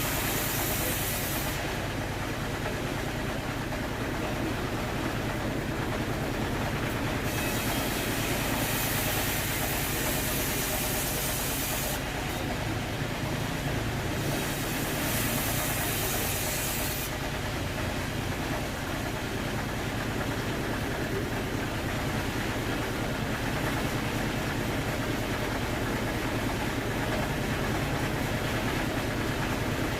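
Sawmill machinery running with a steady low drone, joined by a bright hissing rush that stops about a second and a half in, then returns for about five seconds mid-way and again for a couple of seconds shortly after.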